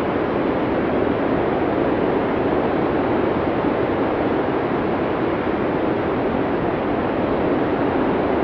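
Blizzard wind sound effect from the Classic Cinesound library: a steady, even rush of wind noise with no gusts or changes, dull-toned with little hiss at the top.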